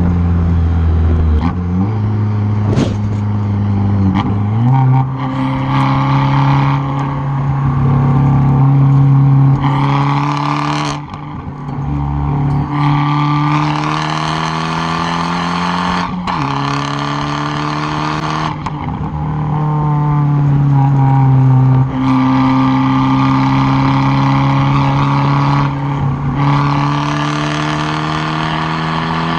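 Exhaust of a tuned, straight-piped Fiat 500 Abarth turbo four-cylinder under hard acceleration, heard close at the tailpipe. The engine note climbs through the revs and drops back at each gear change, several times over.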